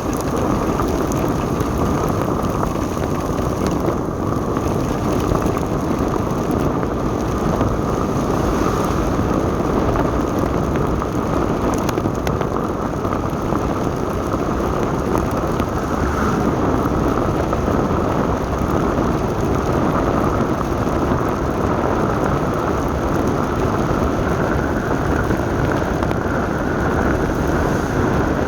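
Steady rain mixed with the low rumble of a moving vehicle, continuous and unchanging.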